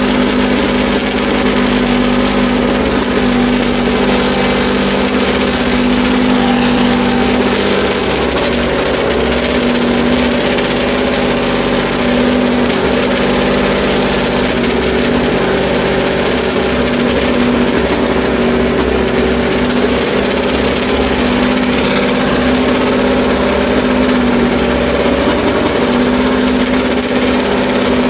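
Honda RA272's 1.5-litre transverse V12 racing engine running loud and steady at a constant speed, held around idle after being started.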